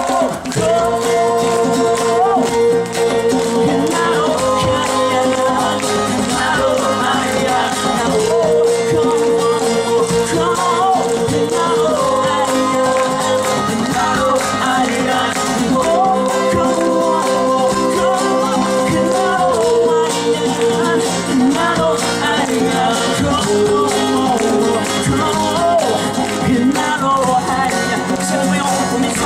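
A live song performance: long held sung notes over a steady band accompaniment with guitar.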